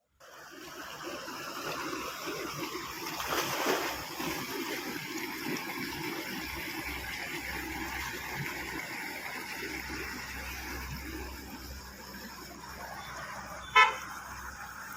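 Steady outdoor noise of water running and splashing, with one short horn beep about a second before the end.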